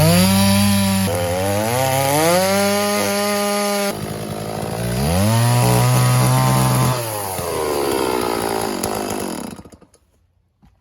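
Two-stroke chainsaw running on a chainsaw mill, its engine revving up to a high steady pitch, dropping back and revving up again twice, with abrupt jumps in the sound. It then slows down and stops near the end.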